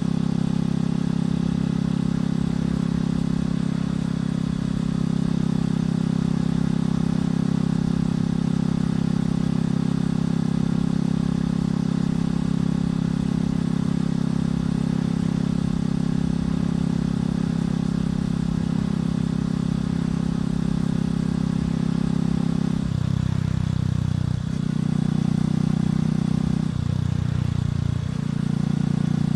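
Motorcycle engine and exhaust running steadily under way at a constant pitch. Near the end the engine note shifts in pitch a few times, with two brief dips in level.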